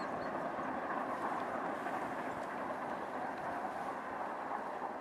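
Steady rumble of a retro passenger train's coaches rolling along the rails as the train moves away.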